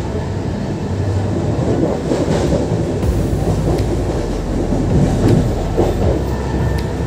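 Passenger train running at speed, heard from inside the coach: a steady rumble of wheels on rails, with a few scattered clicks of the wheels over rail joints.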